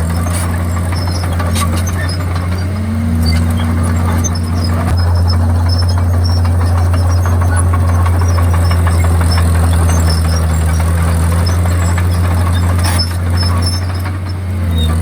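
Komatsu D51PX crawler bulldozer working: its diesel engine running with a steady low drone whose pitch shifts a couple of times, with occasional clanks from the machine.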